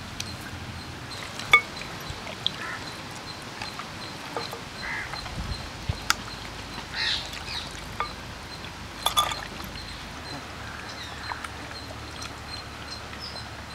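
Scattered short bird calls over a steady outdoor background, with a few sharp clicks, the loudest about a second and a half in and again about nine seconds in.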